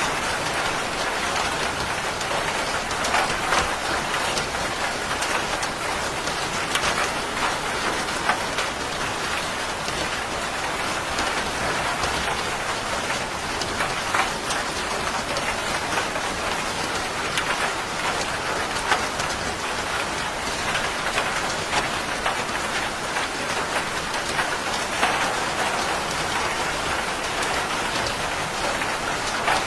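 Steady rain falling on a hard surface, with many sharp individual drop ticks over an even hiss.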